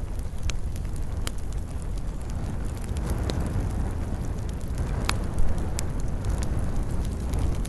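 Campfire burning: a steady low rumble of flames with sharp, scattered crackles and pops of burning wood, one louder pop about five seconds in.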